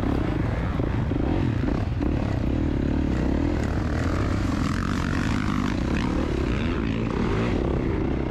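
KTM two-stroke dirt bike engine running under load, its pitch rising and falling with the throttle.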